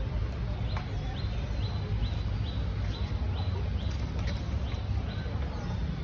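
A bird calling with a short, high, quickly rising note repeated about nine times, a little more than two a second, over a steady low rumble.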